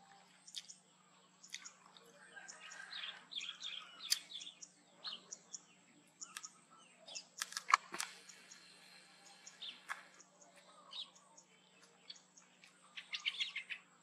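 Faint, scattered short chirps of small birds, with a quick run of chirps near the end. A sharp click a little past halfway is the loudest sound.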